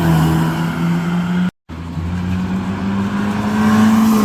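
Car engine running at steady revs with a steady pitched hum, over road noise; the sound cuts out completely for a moment about one and a half seconds in, then the engine note returns, edging slightly higher.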